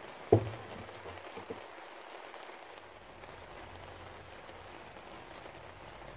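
Steady faint hiss of background noise, with one sharp knock about a third of a second in and a softer knock about a second and a half in.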